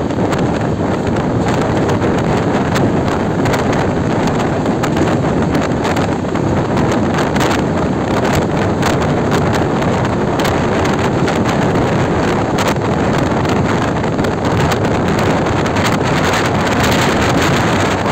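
Passenger train running at speed, heard from its open door: a steady rush of wind buffeting the microphone over the rumble of the coaches, with frequent irregular clicks and clatter from the wheels on the track.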